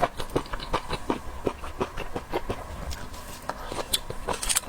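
Close-up chewing of crunchy raw seafood from a sashimi platter: a run of irregular small crunches and wet clicks, several a second.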